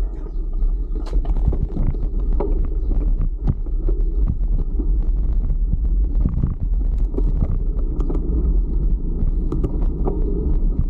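Steady low rumble of wind buffeting the camera microphone and tyres running on the road while riding a fixed-gear bicycle, with scattered small knocks and rattles.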